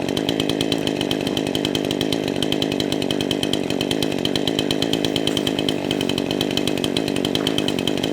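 Chainsaw running steadily as it cuts softwood sawmill slab offcuts into firewood lengths.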